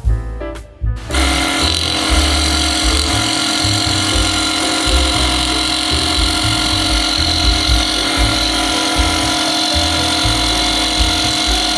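Small power tool starting about a second in and running steadily with a constant whine.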